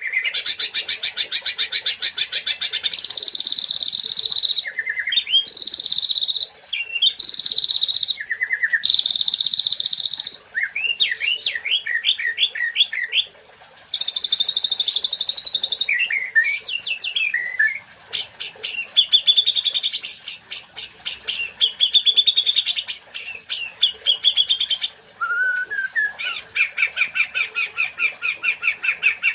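White-rumped shama (murai batu) singing a long, varied song: phrase after phrase of rapid trills, repeated rising notes and clear whistles, with short pauses between phrases.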